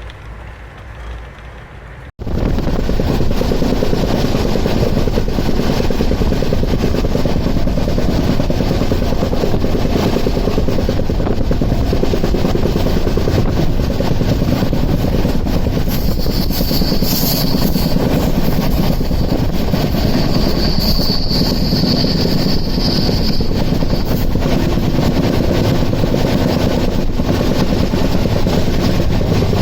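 Express train running at speed: a loud, steady rumble of wheels on the track that starts abruptly about two seconds in, with a high squeal twice near the middle.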